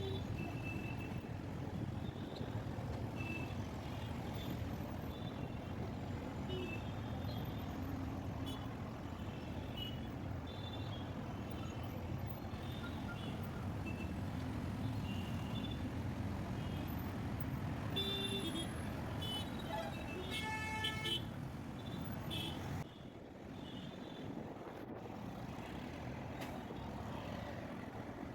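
City road traffic: a steady rumble of engines and tyres with scattered short horn toots, and a longer, louder horn honking about two-thirds of the way through. The rumble eases a little a few seconds later.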